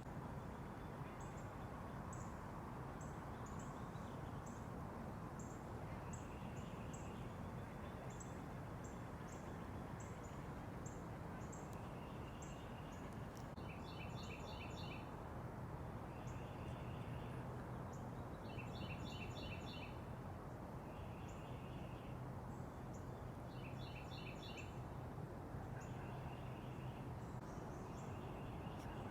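Backyard songbirds calling over a steady background hum of ambient noise: many short, high chip notes keep repeating, and from about halfway in a short song of rapid repeated notes comes back about every five seconds.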